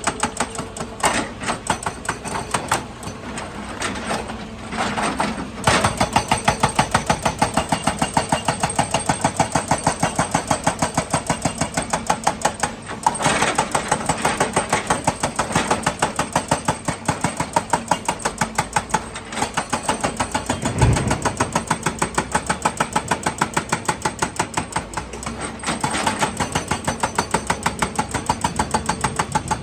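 Excavator running, with a fast, even mechanical clatter of about three to four beats a second.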